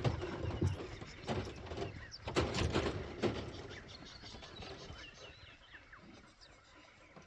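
Small birds chirping faintly over irregular outdoor rustling and knocks, which are loudest in the first three seconds and then die away.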